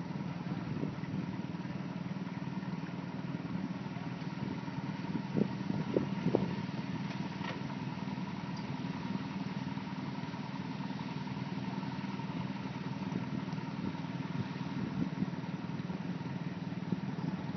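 An engine running steadily at idle, with a few short knocks about five to six and a half seconds in.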